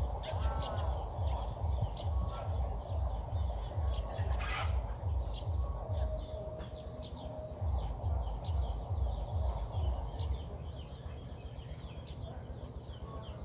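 Birds chirping with many short, high calls, over a low, pulsing rumble. One brief held note comes about halfway through.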